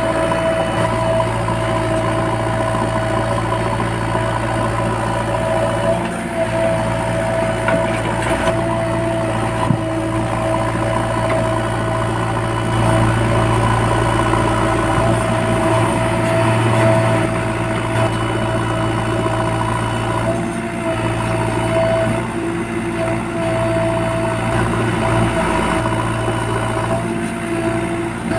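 Heavy diesel engines running steadily at a mud-loading job: a JCB 3DX backhoe loader working beside a Tata Signa 2825.K tipper truck. A steady high whine sits over the engine note, rising and falling slightly in loudness.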